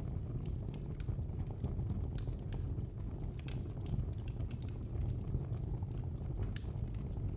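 Wood fire burning in a fireplace, crackling with many small, irregular pops and snaps over a steady low rumble.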